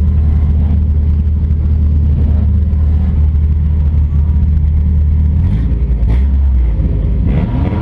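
Toyota demolition derby car's engine idling loudly, heard from inside the stripped cabin. There are two short knocks about five and a half and six seconds in, and a brief rev near the end.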